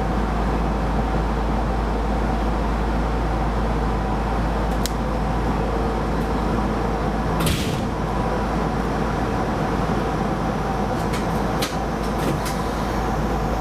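Keisei rapid train running, heard from inside the car: a steady rumble of wheels on rail with a faint hum. A short hiss comes about halfway through, and a few sharp clicks near the end.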